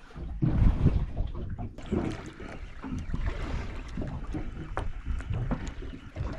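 Wind buffeting the microphone and water slapping against a boat's hull at sea, in irregular low gusts with a few light knocks.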